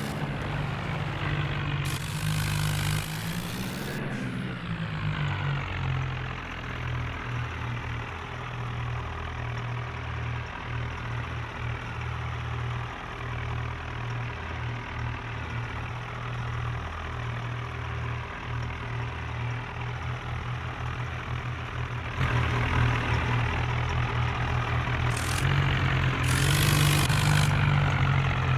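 Tractor engine running steadily with a low, even note. Its pitch rises and falls back once, about two to five seconds in. It gets louder and hissier over the last six seconds.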